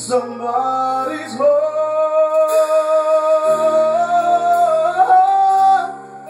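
A song with instrumental backing: after a short sung phrase, the singer holds one long wavering note for about four seconds, stepping up in pitch twice before it ends near the end.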